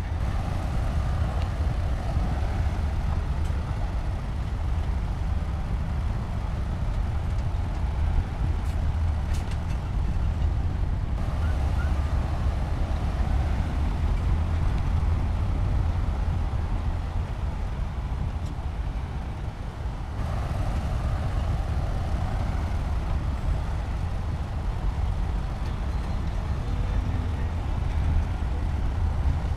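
Shantui bulldozer's diesel engine running steadily at work, a deep low drone that eases briefly about two thirds of the way through. A few faint clicks sound near the middle.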